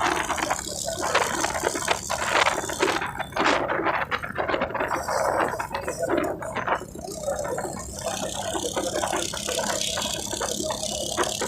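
Irregular rattling and clattering.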